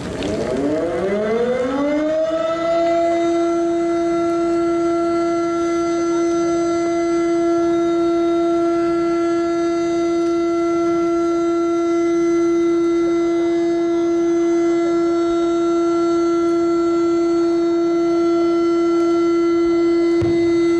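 A siren winds up over about two seconds and then holds one steady, loud wail. It is the warning siren sounded before the shōsanjakudama, the giant three-shaku firework shell, is launched.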